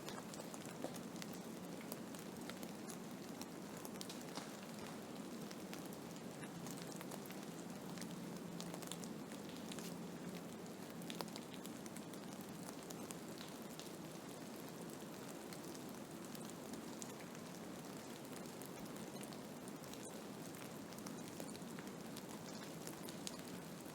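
Blizzard ambience: a steady rush of wind noise with a dense patter of small ticks throughout.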